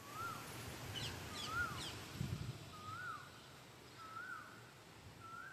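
A bird repeating a short whistled note that rises and then drops, five times at an even pace of about one every second and a half. About a second in, another bird adds three quick high notes that fall in pitch, and a brief low rumble comes a little after two seconds.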